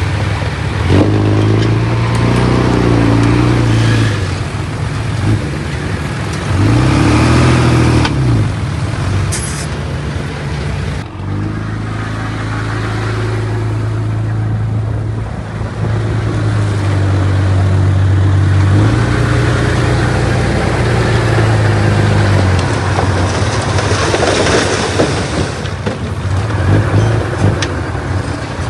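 Heavy diesel engine of earthmoving machinery working under load. It surges and eases several times, its pitch rising and falling.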